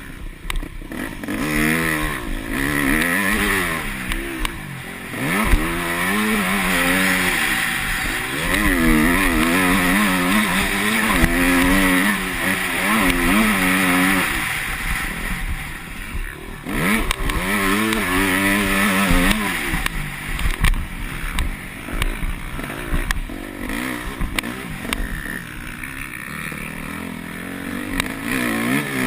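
Yamaha YZ250F four-stroke single-cylinder engine revving up and down again and again as the bike is ridden on a motocross track, with wind rush on the camera microphone.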